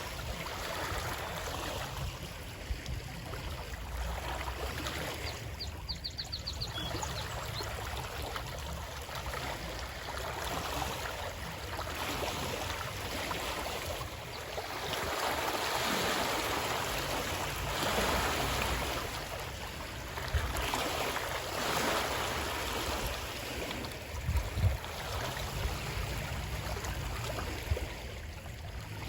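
Running water: a steady rushing that swells and eases every few seconds, over a low rumble, with a brief run of high ticks about six seconds in and a few short knocks near the end.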